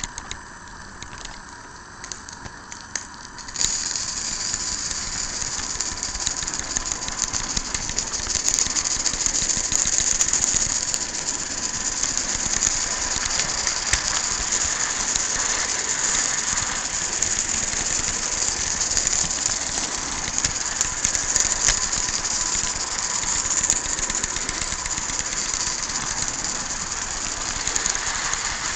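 Accucraft Shay garden-scale model geared locomotive running, with a steady mechanical clatter of gears and drive over a high hiss. The sound gets louder about four seconds in and then stays even.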